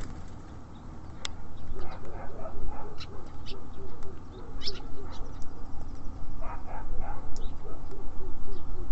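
Small songbirds at a feeder giving short, high chirps and calls scattered through, over a steady low rumble. A lower call repeats several times a second under them for most of the time.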